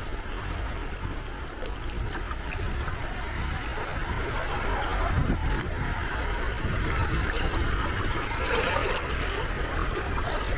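Gentle sea waves washing onto the shore over a steady low rumble, with one wash swelling louder about seven seconds in.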